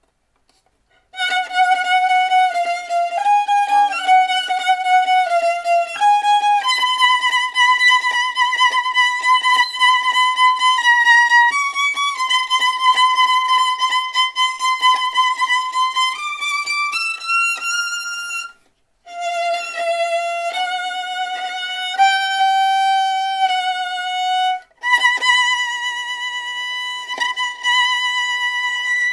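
Solo violin playing a slow melody of long, high held notes. It starts about a second in and pauses briefly twice.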